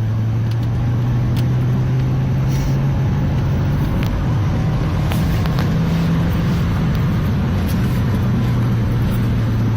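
Peugeot 208 GTI's 1.6-litre turbocharged four-cylinder engine pulling on the road, breathing through a TMSR2 intake, which gives it a louder, throatier intake note. The engine note rises in pitch as the car accelerates, drops about seven and a half seconds in, then rises again.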